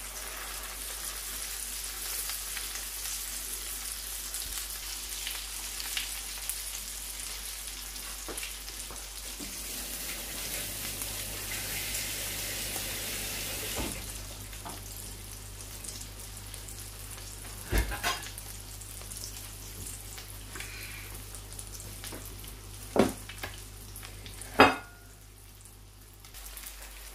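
Hot oil sizzling steadily around chicken shami kebab patties shallow-frying in a frying pan, louder in the first half. A few sharp knocks come through in the second half, the loudest near the end.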